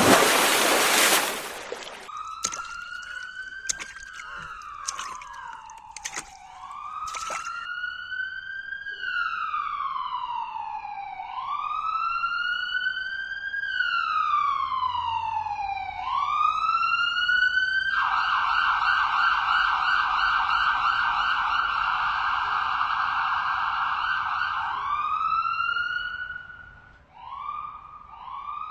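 Electronic police-style siren wailing in slow rising and falling sweeps, switching to a fast warble for several seconds, then a few short whoops near the end. It opens with a loud burst of hiss and a few sharp clicks.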